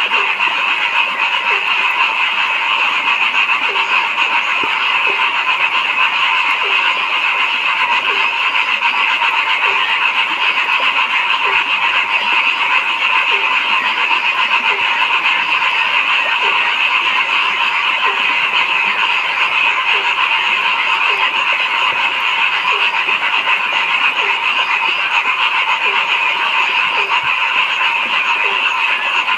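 A dense chorus of many frogs calling steadily, with short, lower croaks repeating about once a second over the top.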